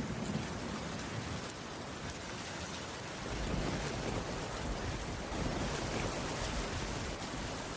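Steady rain falling, with a low rumble of thunder that fades and then swells again about halfway through.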